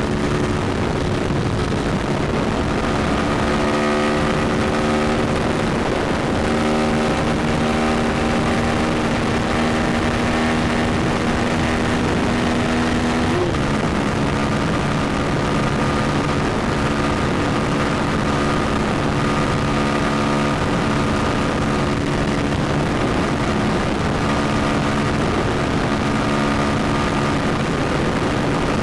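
KTM 390 Duke's single-cylinder engine running steadily under way, its pitch holding level for long stretches, with a short shift in pitch about six seconds in and a sharper change around thirteen seconds in.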